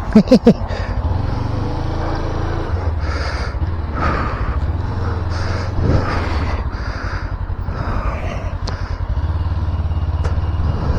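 Motorcycle engine running steadily, a low even rumble.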